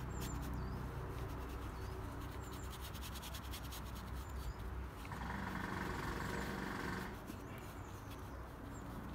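Quiet outdoor background: a low steady hum with faint, scattered high bird chirps. About five seconds in, a steadier mid-pitched sound rises for around two seconds, then fades.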